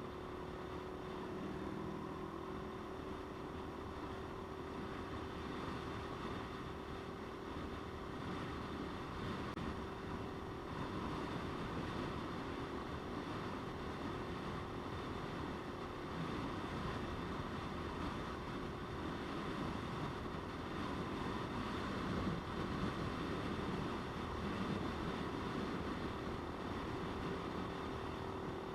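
Motorcycle engine running at a steady pace while riding, with wind rushing over the microphone.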